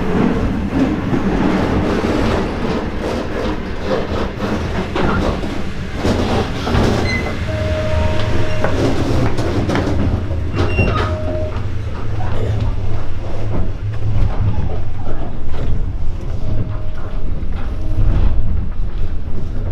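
Inside a moving sleeper train: the carriage's running noise, a steady heavy low rumble with rattles and knocks, and a few short high squeals.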